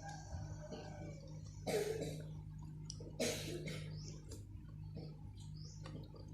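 A person eating spicy instant noodles makes two short, loud breathy noises about a second and a half apart, over a steady low hum and faint bird chirps.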